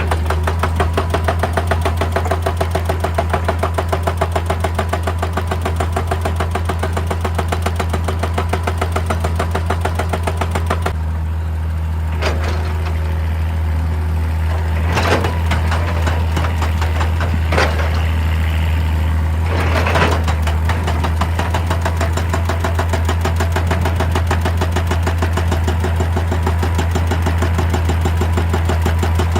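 Excavator's diesel engine running steadily while a hydraulic rock breaker hammers in rapid, even blows; the hammering stops about a third of the way in, a few single sharp knocks follow, then the rapid hammering resumes near the end.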